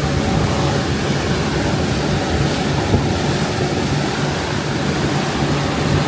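Thames Clipper river bus under way: a steady engine drone with rushing water and wind noise on the microphone. A single brief knock about three seconds in.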